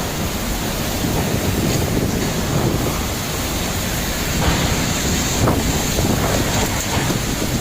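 Hurricane wind blowing hard across the microphone, a dense, steady rushing noise, heaviest in the low range.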